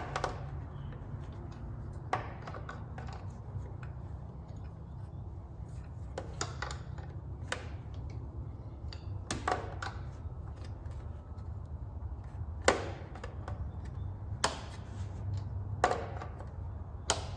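Scattered metallic clicks and clinks of an open-end wrench working a starter-adapter nut on a Continental aircraft engine, about nine in all at uneven intervals, over a steady low hum.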